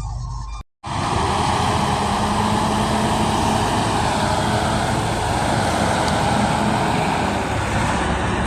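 A heavy diesel engine of earthmoving machinery running loud and steady. The sound cuts out briefly less than a second in.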